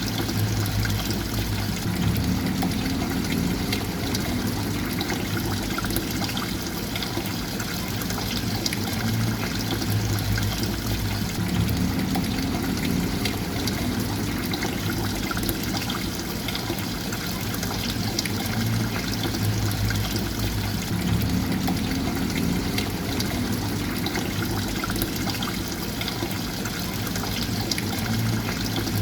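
Continuous running water, a steady trickling wash, with a low rumble that swells and eases about every ten seconds.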